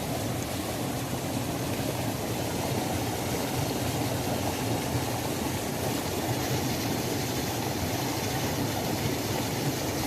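Waterfall: a steady, low rush of falling water, even throughout with no breaks.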